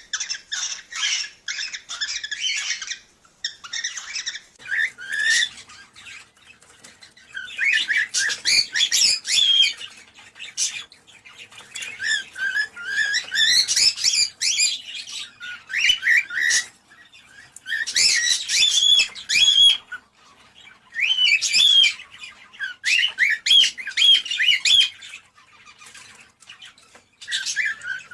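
Cockatiels chirping and warbling in quick bouts of one to three seconds with short pauses between, a breeding-season call played to stimulate pairs to mate.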